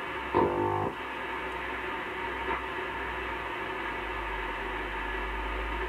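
Short-wave radio static and hiss from a Grundig Satellit 3400 world receiver tuned between stations, with a short snatch of a signal about half a second in. A low hum grows louder near the end.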